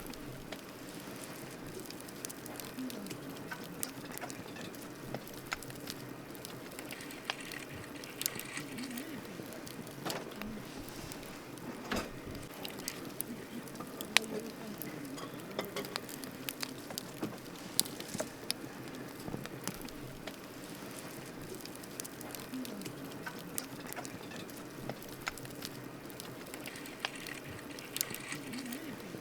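Wood campfire crackling, with irregular sharp pops and snaps over a steady low hiss of burning.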